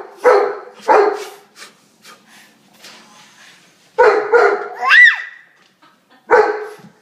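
Pet dog barking in short, sharp bursts: two barks at the start, a quieter pause, then a quick run of barks about four seconds in that ends in a high rising-and-falling squeal, and one more bark near the end.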